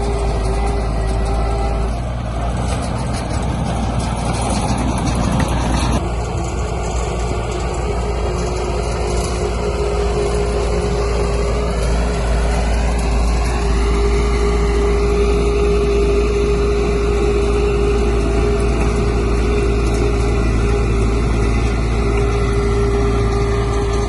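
Heavy diesel engine of earthmoving machinery running steadily, with its pitch climbing for a couple of seconds about twelve seconds in as it revs up.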